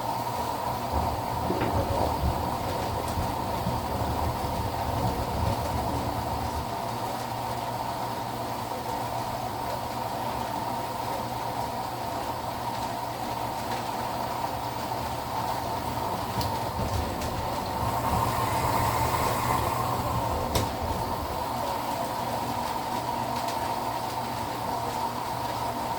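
Midea HealthGuard Smart 13 kg front-loading washing machine running its steam stage, a steady mechanical hum as the drum turns slowly now and then. It swells louder in the first few seconds and again about three-quarters of the way through, with a single sharp click just after.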